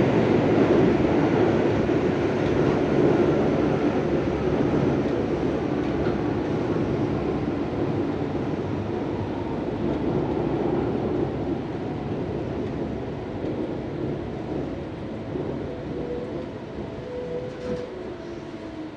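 Tobu 634-series electric train running, heard from inside the car, slowing as it approaches a station: the running noise fades steadily, and faint pitched tones come in near the end as it brakes.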